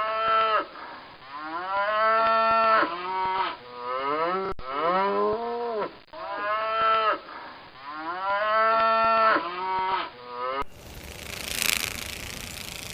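Cow mooing: a run of drawn-out moos that rise and fall in pitch, the same sequence of calls heard twice. About two-thirds of the way through it cuts off abruptly to a rough scraping noise.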